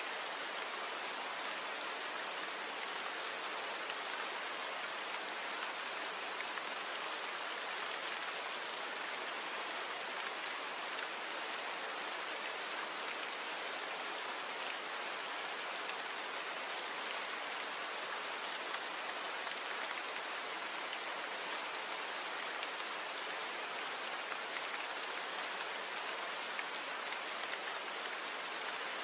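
Steady, even rain falling, with fine scattered drops ticking.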